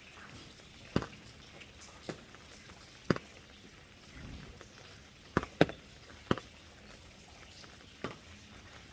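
Rain dripping: single drops land as sharp, separate taps at irregular intervals, about one a second, with two in quick succession around the middle, over a faint background hiss.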